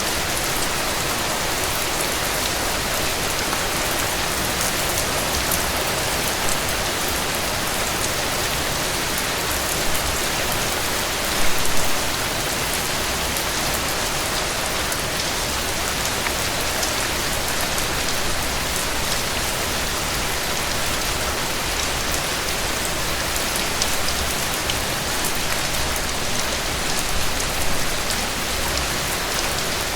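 Heavy rain falling steadily. A few brief louder spatters come about eleven seconds in and again near the end.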